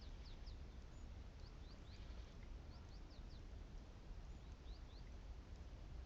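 Tits giving short, high, thin call notes, a dozen or so scattered through, faint over a steady low rumble.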